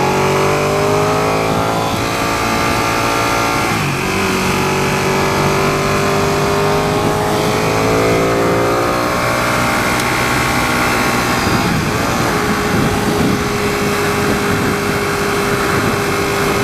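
Ducati 959 Panigale's L-twin engine pulling hard under acceleration. Its pitch climbs and then drops at an upshift about four seconds in, climbs again to a second upshift about nine seconds in, then holds steady at cruising speed.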